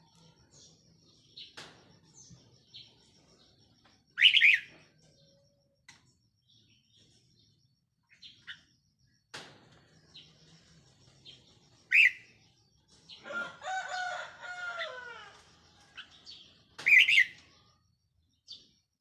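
Caged decoy red-whiskered bulbul calling: loud short phrases about four, twelve and seventeen seconds in, with faint chirps between. A longer, lower call falls in pitch near the middle, and a faint rapid high ticking runs in the background.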